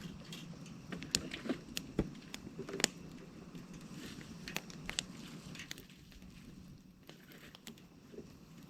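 Campfire of burning wood crackling, with irregular sharp snaps over a steady low background hum.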